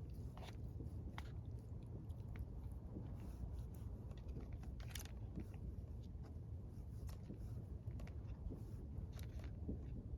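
Light crinkling, clicking and crackling of plastic packaging as a self-heating hotpot's packs are handled, over a steady low rumble.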